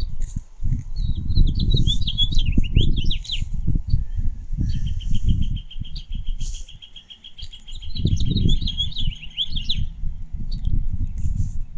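Small songbirds singing: quick twittering phrases, then a long, even trill of rapid repeated notes lasting about five seconds. Underneath, a louder low rumble that comes and goes in gusts.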